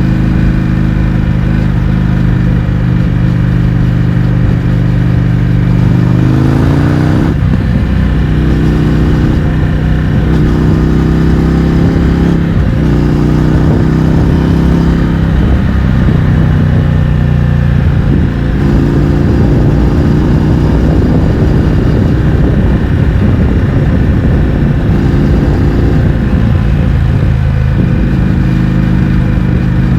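Indian FTR 1200's 60-degree V-twin running through an Akrapovič exhaust with the baffles removed, under way. It holds a steady pitch, revs up about six seconds in, then rises and falls in engine speed several times.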